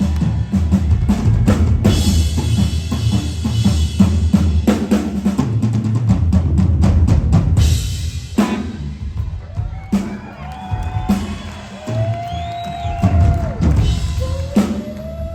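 Live blues-rock band playing. Heavy drum kit with bass and guitar for about eight seconds, then the drums thin to occasional hits under held, bending high notes.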